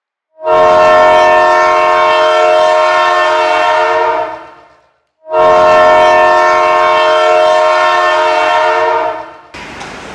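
Ice-rink arena horn sounding two long, steady blasts of about four seconds each, with a short gap between them.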